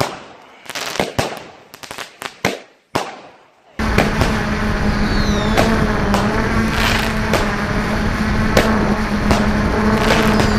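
Fireworks and firecrackers going off in a rapid string of separate sharp bangs. About four seconds in, a loud steady hum with a low, even tone starts abruptly, typical of a drone's propellers. More bangs and a couple of falling whistles carry on over it.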